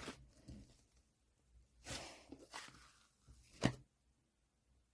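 Fluffy slime being handled: a few short, soft squishes and presses, the sharpest one near the end.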